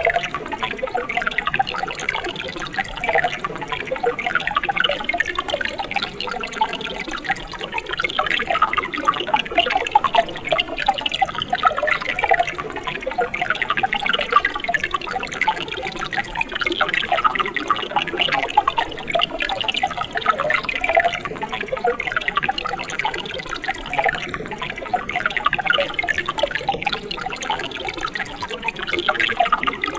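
Water in a mountain stream running and burbling over rocks, a steady splashing and gurgling with no pauses.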